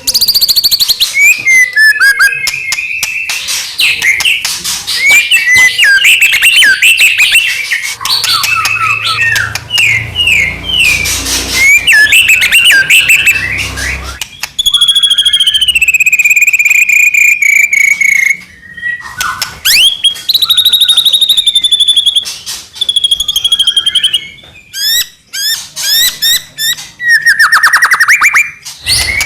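White-rumped shama singing a loud, varied song: quick chattering phrases and trills, clear whistled notes gliding downward, and a fast ticking trill near the end.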